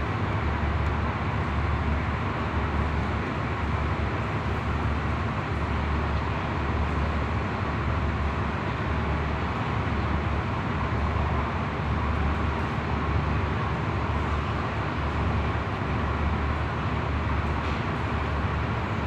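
Diesel-hauled passenger train backing slowly into a station platform: a steady, even rumble with a low throb that swells and fades about once a second.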